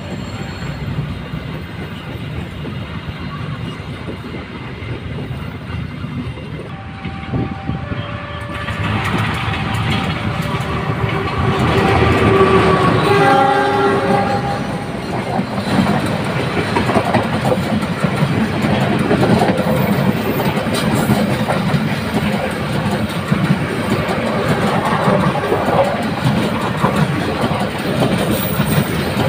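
A train passing close by, its wheels clattering on the rails and growing louder from about eight seconds in. The locomotive horn sounds briefly about seven seconds in, then a longer blast several seconds later.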